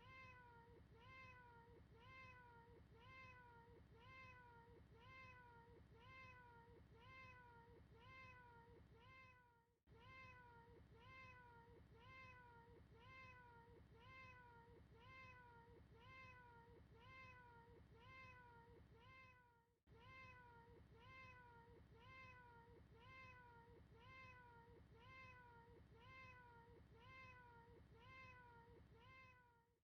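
A recorded cat meow looped, the same short meow repeating about one and a half times a second, faint, with a brief break every ten seconds or so where the loop restarts.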